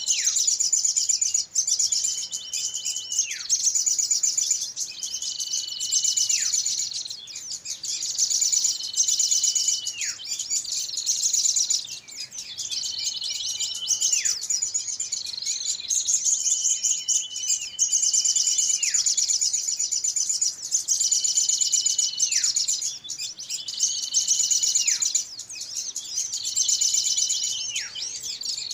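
Bird-lure recording of many small birds calling in a commotion: dense, rapid high-pitched chattering throughout. A call that holds a steady whistle, then drops sharply in pitch, repeats about every three seconds in a looped pattern.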